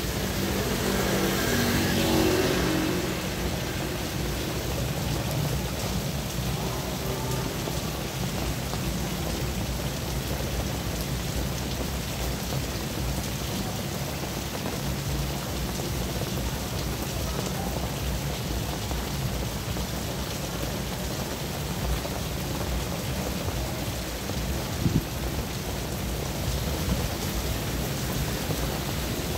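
Steady rain falling on a wet asphalt road. About two seconds in, a vehicle passes, its engine note falling as it goes by. There is a single brief tap a few seconds before the end.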